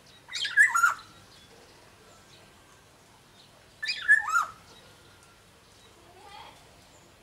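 Black-naped oriole (kepodang) calling: two loud calls of under a second each, about three seconds apart, with gliding notes, and a fainter third call near the end.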